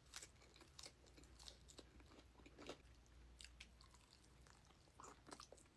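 A person chewing a bite of potato wedge close to the microphone, quietly, with scattered soft crunches and wet mouth clicks.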